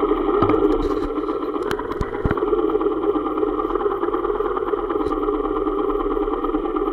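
Motorcycle engine idling steadily, picked up by a camera mounted on the bike, with a few short knocks in the first couple of seconds.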